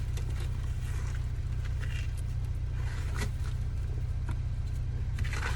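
Snow being brushed and scraped off a truck in short, irregular strokes, over a steady low hum.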